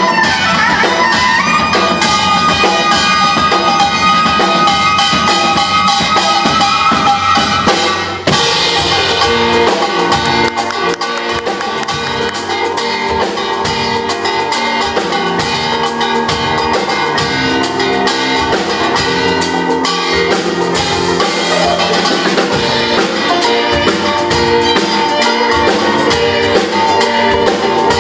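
Fusion Korean traditional (gugak) ensemble playing live: held melodic lines over a steady drum beat, with a sudden change in the texture about eight seconds in.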